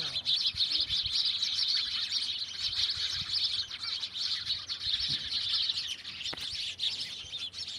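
A group of house sparrows chirping, a dense, unbroken chatter of short high chirps.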